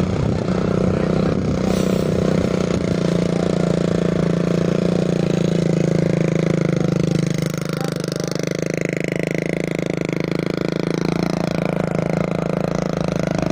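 An engine running steadily with a low, even hum; from about eight seconds in, fainter higher tones glide up and down over it.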